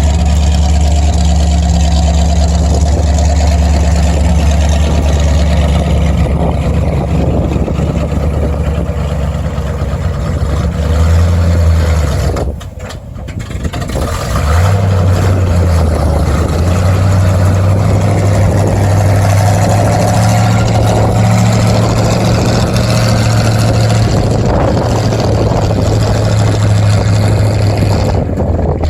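Silage truck's engine running steadily with a low drone. About twelve seconds in it rises briefly, drops away for a second or two, then picks back up and runs steady at a slightly higher pitch.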